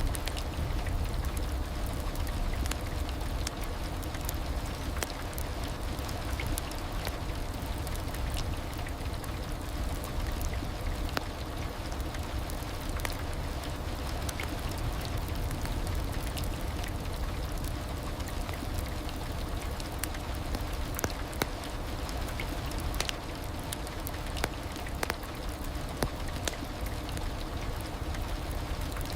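Steady heavy rain, a continuous wash of falling water with scattered individual drops ticking sharply.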